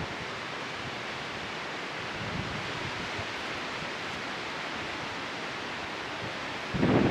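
Steady wind with rustling, and a strong gust buffeting the microphone near the end.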